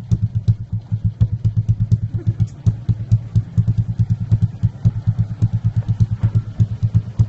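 Motorcycle idling steadily through an aftermarket trioval exhaust muffler, with an even, rapid low pulsing beat.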